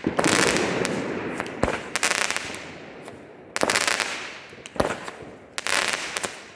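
Fireworks going off in quick succession: about six sharp bangs, each trailing off into a fading crackle.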